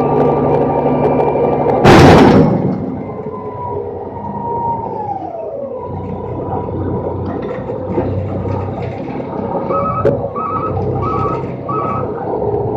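Rolloff truck's engine and hydraulics running, with one loud metal bang about two seconds in. A few seconds later the whine falls in pitch, and near the end there are four short high beeps.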